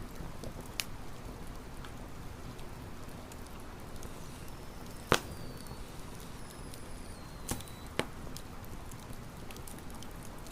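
Wood campfire crackling: scattered sharp pops and snaps over a low steady hiss, the loudest snap about five seconds in. Twice a faint, thin, high whistle slides down in pitch.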